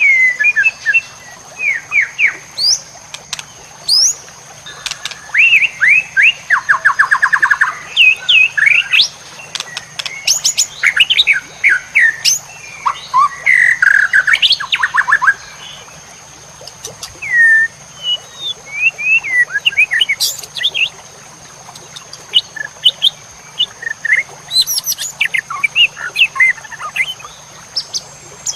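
White-rumped shama (murai batu) singing a loud, varied song: whistled notes, quick up-and-down sweeps and fast trills, delivered in bursts with short pauses between phrases.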